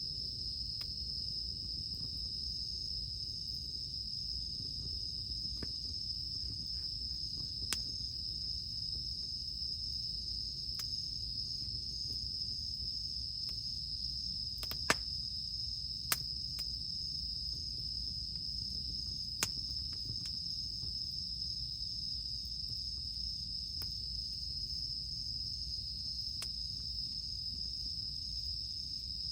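A steady, unbroken chorus of cicadas, with occasional sharp pops from a crackling wood campfire, a few louder ones in the middle.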